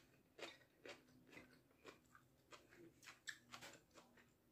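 Faint, irregular crunching clicks of a person chewing a mouthful of rice and raw leafy greens.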